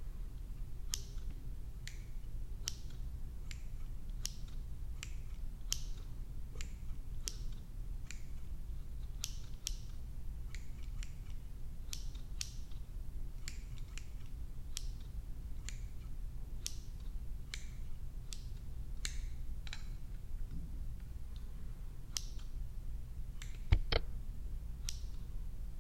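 Scissors snipping hair close to the microphone, a sharp snip every second or so, over a steady low hum. One louder knock comes near the end.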